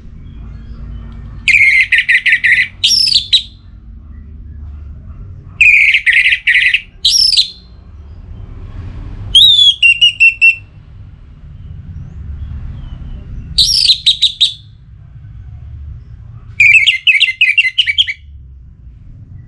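Orange-headed thrush singing: five short, loud phrases a few seconds apart. Each is a rapid run of notes followed by a higher, falling whistle. A low rumble runs underneath.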